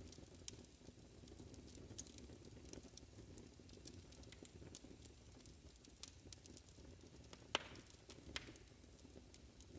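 Wood fire crackling in a fireplace: scattered small irregular pops over a faint low rumble, with one sharper pop about three-quarters of the way through.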